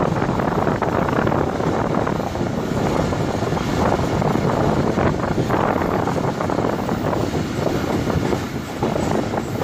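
Pakistan Railways express passenger coach running along the track, heard from its open door: a steady rumble of wheels on the rails, with wind buffeting the microphone.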